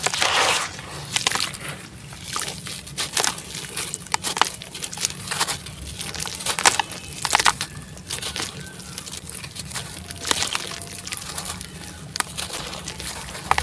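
Bucket-moulded sand-cement concrete crumbling while dipped in water, with irregular sharp cracks and crackles over a light sloshing.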